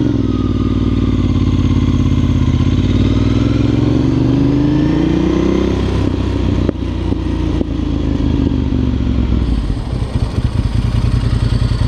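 Motorcycle engine under way, pulling with its pitch rising over a few seconds, then dropping about six seconds in and running steadily before easing off.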